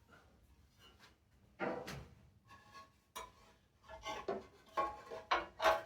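Hand work on a small engine: a few separate sharp knocks and clinks of parts and tools, then a quick run of short scraping strokes, about four a second, near the end.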